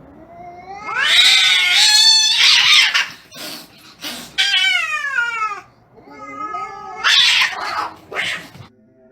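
Cats yowling and screeching in a fight: three bouts of high, wavering caterwauls, with short harsh spits between them.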